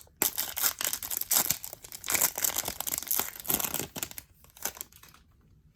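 Wrapper of a Topps Chrome trading-card pack being torn open and crinkled, the crackling dying away about four seconds in.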